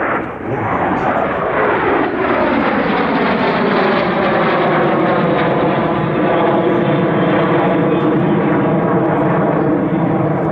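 Aircraft engines of a close formation flying past, loud. The pitch slides down in the first two seconds, then settles into a steady, layered drone.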